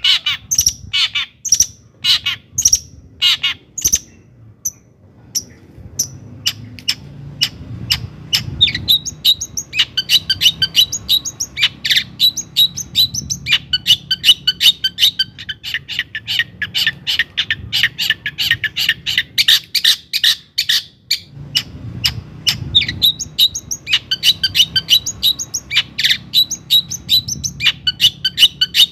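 Long-tailed shrike (cendet) singing: a few loud, sharp separate notes, a brief pause about four seconds in, then a fast, dense twittering chatter.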